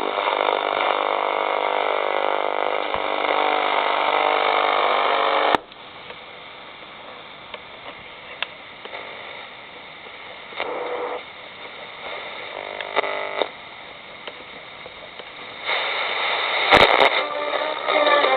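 Poppy Sound radio receiver being tuned across the band. A station's broadcast cuts off with a click about five seconds in, giving way to quiet hiss with brief snatches of other stations. Near the end another station comes in louder.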